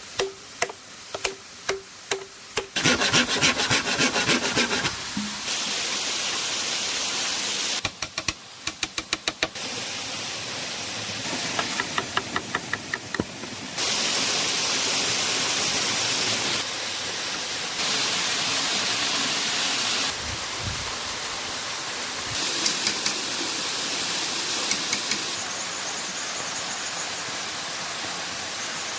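A string of abruptly cut sounds: evenly spaced knocks, then bursts of rapid striking, alternating with stretches of steady rushing water noise that start and stop suddenly.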